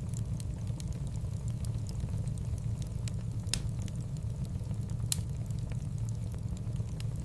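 Wood fire burning in a fireplace: a steady low rumble of flames with scattered crackles, and two sharper pops about three and a half and five seconds in.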